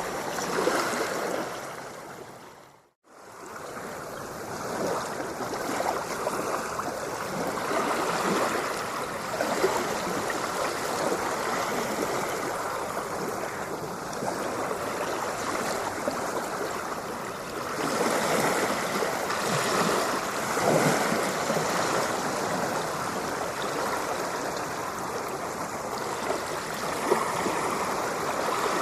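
Ocean water rushing and splashing in a continuous wash. It fades out to a moment of silence about three seconds in, swells back, and grows louder for a few seconds past the middle.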